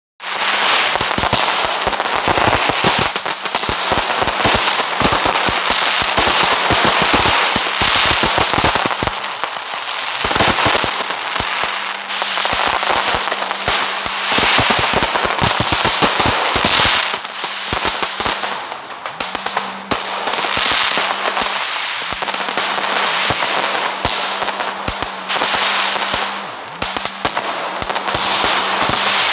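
Fireworks crackling and popping, a dense run of rapid cracks over a hiss that swells and eases every few seconds without stopping.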